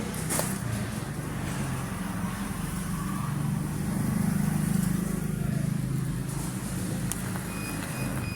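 Low, steady rumble of a motor vehicle, growing louder around the middle and easing off again.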